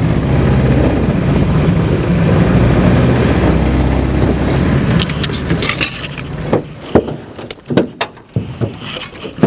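Small boat's 6.5 hp Predator mud motor running steadily, then dying away about five seconds in. After that comes a scatter of sharp clicks and knocks.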